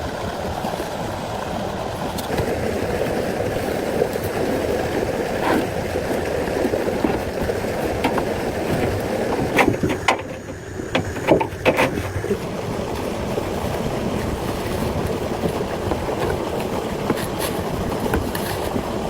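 A vehicle running with a steady rumble, dipping briefly with a few clicks about ten seconds in.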